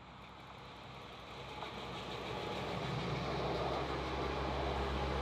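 Double-deck regional electric train approaching and passing close by: wheels running on the rails with a low motor hum. It grows steadily louder over the first three seconds, then holds steady as the coaches go by.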